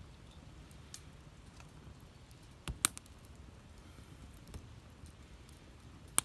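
Wood campfire crackling: a few scattered sharp pops, the loudest a double pop about three seconds in, over a low steady rumble.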